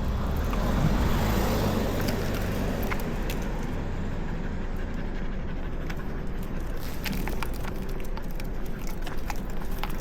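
A car passing on the street, its tyre and engine noise swelling about a second in and fading over the next couple of seconds, over a steady low traffic rumble with faint scattered ticks.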